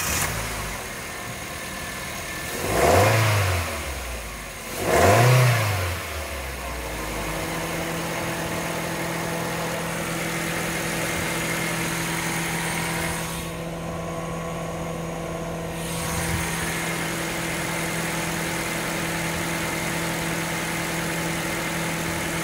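2007 Mazda 2's DOHC four-cylinder petrol engine running just after being started: revved briefly twice in the first few seconds, each rev rising and falling back, then settling into a steady idle.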